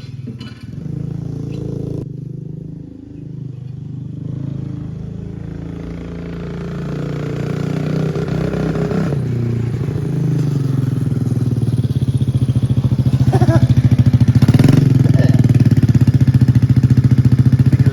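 Small motorbike-type engine running and growing steadily louder, with a dense rapid pulse once it is at its loudest.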